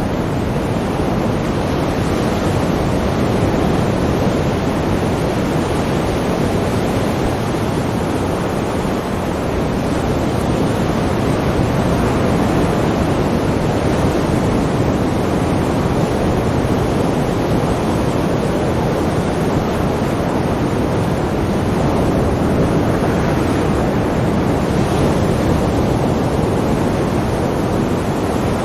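Sea waves surging and washing on a shore: a continuous rush of surf that swells and eases slowly every several seconds.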